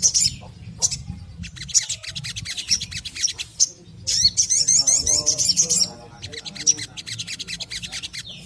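Olive-backed sunbird singing: fast, high twittering trills, one ending just after the start and another long burst from about four to six seconds in, with sharp single chirps scattered between, over a low steady hum.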